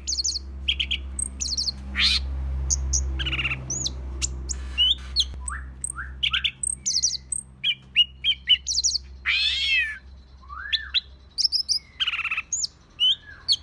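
Cucak ijo (greater green leafbird) singing in an agitated state: a fast, varied stream of chirps, rapid trills and rising and falling whistles, used to provoke other birds into singing. A steady low hum runs beneath the song for the first half.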